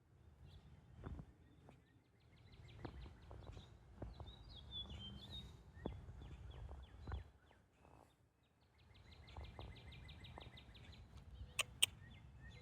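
Outdoor birdsong: a bird giving fast trills of rapid high notes, about ten a second, in two bouts, with a short chirpy call between them, over a low background rumble. Two sharp clicks sound close together near the end.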